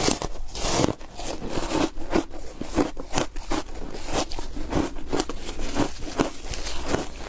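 Close-miked bite into foam ice, a loud crackling crunch, then steady chewing with crisp crunches about two a second.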